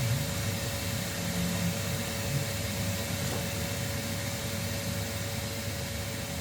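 A steady mechanical hum and hiss with one constant tone running through it.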